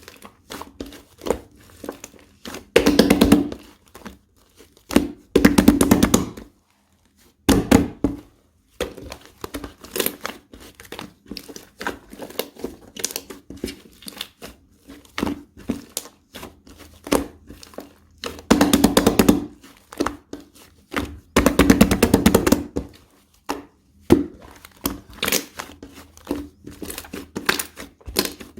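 Slime being pressed, squeezed and stretched by hand, giving clusters of small sticky pops and clicks. About three seconds in, near six seconds, and twice in the back half, there are louder crackling bursts of about a second each.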